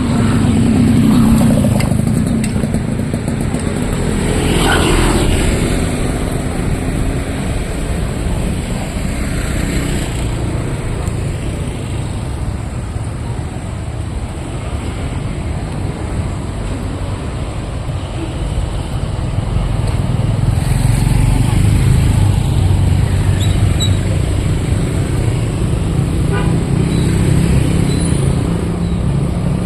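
Road traffic of motorcycles and cars passing, a continuous engine rumble and tyre noise that swells as vehicles go by, most strongly near the start and again from about two-thirds of the way through.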